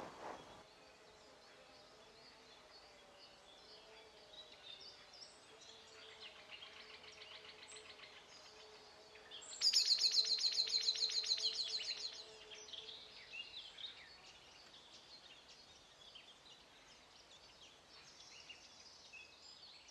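Songbirds singing. A loud, rapid trill of quickly repeated high notes starts about ten seconds in and lasts about three seconds, among fainter scattered chirps.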